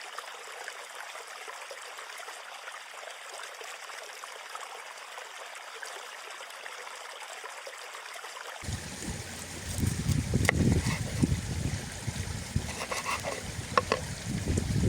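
A stream of water running and trickling steadily. About two-thirds of the way in the sound changes abruptly to a louder, lower rumble, with a few sharp clicks and knocks.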